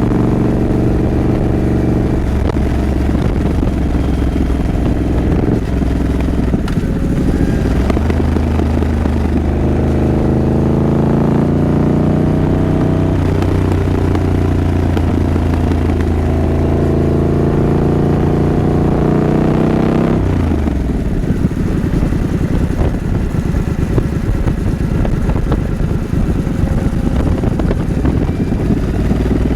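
Triumph Scrambler 900's parallel-twin engine running under way. Its note climbs slowly for about twelve seconds in the middle, then drops sharply about twenty seconds in and carries on lower and rougher.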